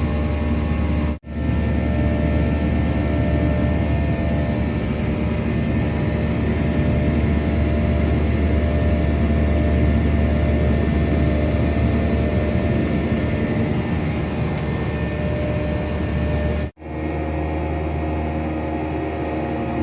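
Steady cabin noise inside a Boeing 737 airliner: a low engine hum under an even rush of air. It cuts out briefly twice, about a second in and near the end.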